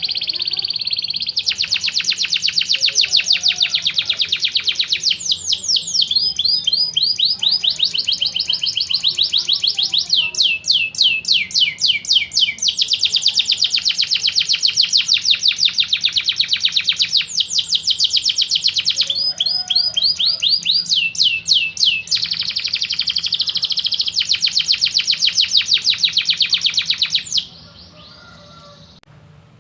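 Canary singing a long, loud song of fast trills: each phrase is a rapid run of one repeated note, and the song switches to a new phrase every few seconds. The song stops near the end.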